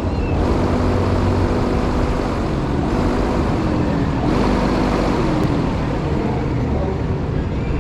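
Steady, loud rush of wind on the microphone and ride noise while riding a Gladiator fairground ride, with short pitched sounds running through it.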